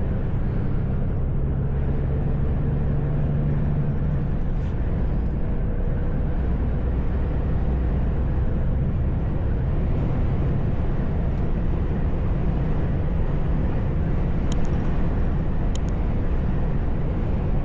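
Steady engine and road rumble heard from inside a moving truck's cab. A few brief sharp clicks come near the end.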